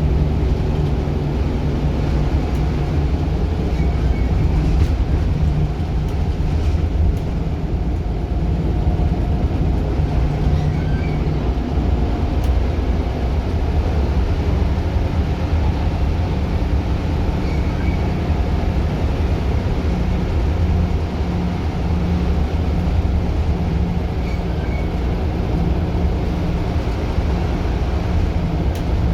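Scania single-decker bus engine running steadily under way, a continuous low drone whose pitch shifts a little as it pulls.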